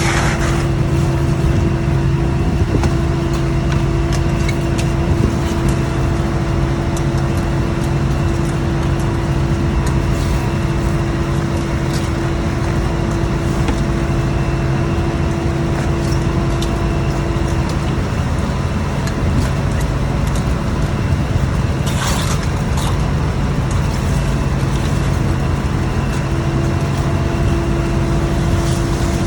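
Steady loud drone of a scallop boat's engine and machinery. A higher hum drops out for several seconds past the middle and then returns, and there is a brief hiss shortly after it drops.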